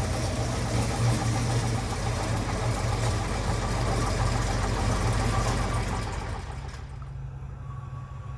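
Small narrow-gauge locomotive's diesel engine running with a pulsing, knocking beat. The noisier upper part cuts off about seven seconds in, leaving a quieter low hum.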